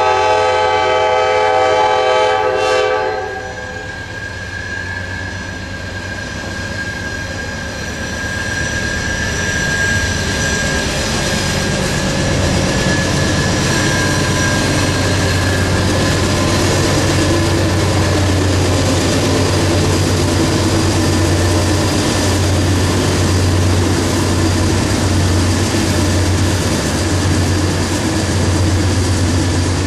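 Norfolk Southern diesel freight locomotives' air horn sounding a chord of several tones, cutting off about three seconds in. Then the locomotives pass, a steady deep diesel engine rumble with wheels on rail, growing louder from about ten seconds in.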